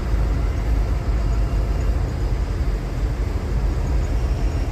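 Steady low road and engine rumble inside a car's cabin while driving at highway speed.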